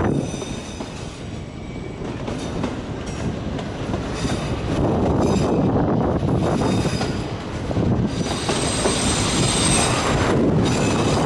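Autorack freight cars rolling past with a steady rumble, their wheels squealing in thin, high tones; the squeal is sharpest about eight to ten seconds in.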